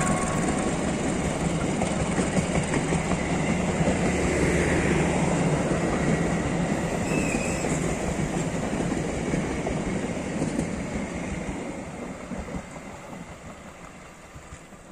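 Passenger train hauled by a CC201 diesel-electric locomotive running past, the rumble of its carriages on the rails steady at first, then fading over the last few seconds as it moves away.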